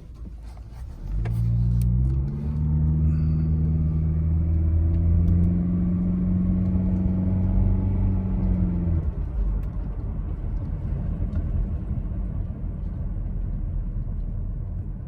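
Honda HR-V pulling away, its engine note climbing and then holding steady for about eight seconds. The engine then eases off, leaving a steady rumble of tyres and road.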